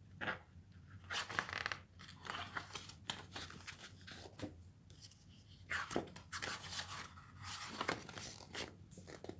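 A series of short paper rustles and crinkles as a picture book's pages are handled and turned.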